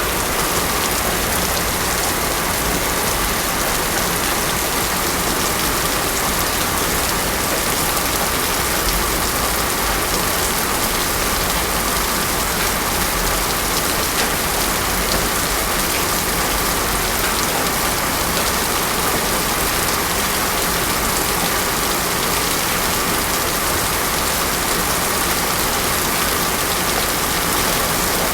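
Heavy rain falling steadily on a hard surface, an even, unbroken hiss with no thunder.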